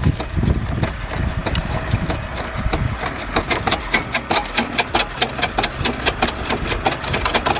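Homemade chopper shredder built from an old forage harvester, its engine running steadily; from about three seconds in a fast, regular clatter joins it as the machine chops.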